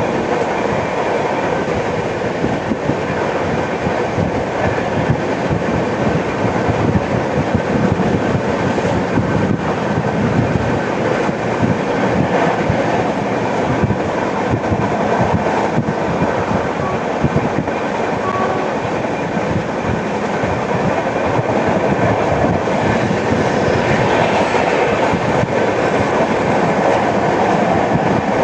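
Passenger train running at speed, heard from aboard: steady rumble of the coaches with the wheels clattering over the rails, and the repeated knock of a flat wheel.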